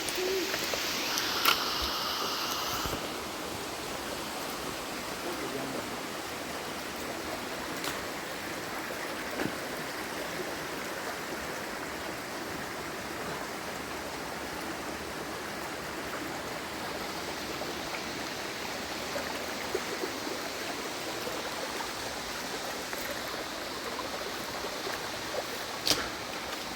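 Steady rushing of flowing water from a stream or waterfall, an even hiss, with a few faint clicks scattered through it.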